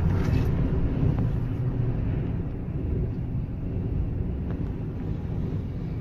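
Strong wind buffeting the microphone as a low, steady rumble, mixed with vehicle road noise.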